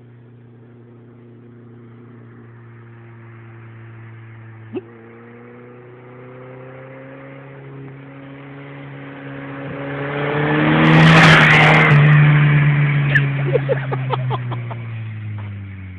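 Turbocharged VW Beetle engine on a bare floor-pan chassis, driving toward and past. Its engine note grows to its loudest about 11 seconds in, then fades with the pitch dropping as it pulls away.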